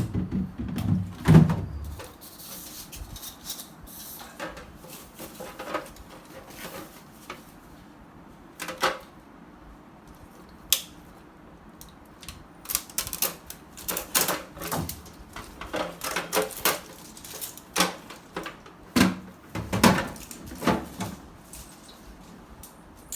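Irregular clicks, knocks and rattles from a refrigerator's doors, drawers and shelves being opened, closed and handled, louder in the first couple of seconds.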